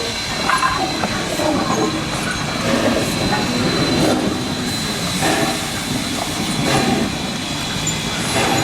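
Heritage train running on the rails: wheels clattering irregularly over the track, with a thin steady high-pitched tone like wheel squeal.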